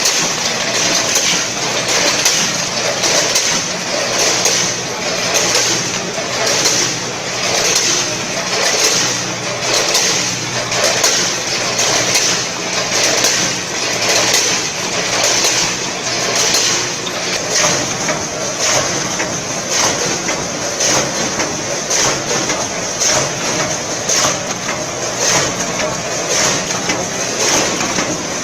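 Combination weigher portioning snacks: a continuous machine hum with a steady, evenly repeating rattle of snacks dropping through the weigh hoppers and chutes.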